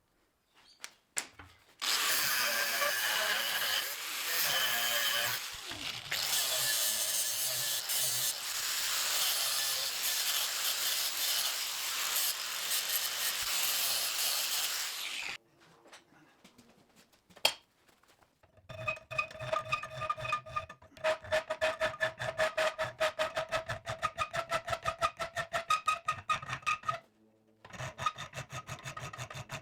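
Hand tools working steel: first a long steady abrasive run lasting about thirteen seconds, then, after a pause with a few clicks, a fast run of quick repeated strokes that make the metal ring, stopping briefly near the end.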